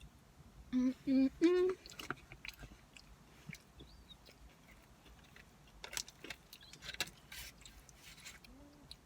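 Mouth sounds of someone eating curly fries: chewing clicks and smacks, with three short hums, each a little higher than the last, about a second in.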